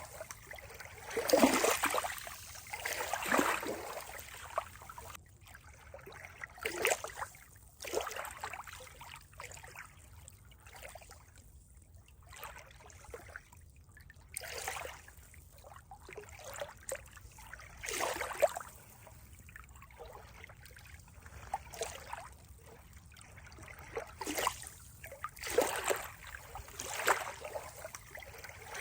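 Water trickling and lapping in irregular splashy swells, a few seconds apart, with a calmer stretch about midway.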